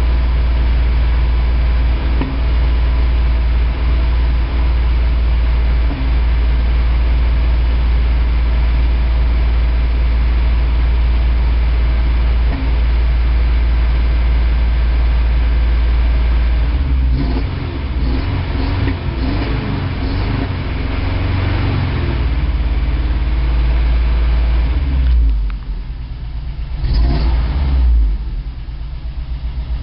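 1987 Toyota 4Runner's 22R-E four-cylinder engine running steadily with the revs held up. From about halfway the sound turns uneven, with a brief rev near the end before it drops to a lower, pulsing idle. It is misfiring, which the owner traced to fouled plugs and a cracked head burning coolant.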